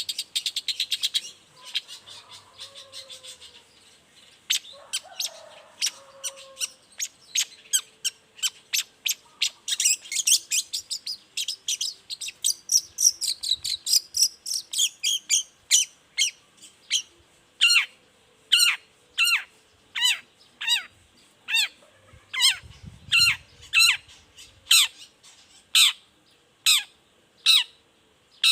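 Long-tailed shrike (cendet) calling: a fast run of sharp, high notes in the first half, then an even series of sharp calls sweeping down in pitch, about one to two a second, from about halfway on.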